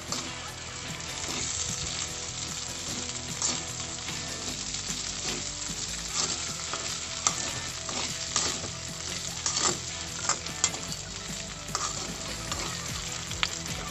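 Diced potatoes and canned meatloaf sizzling in oil in an aluminium wok as malunggay (moringa) leaves are stirred in with a metal spoon, the spoon scraping and clicking against the pan.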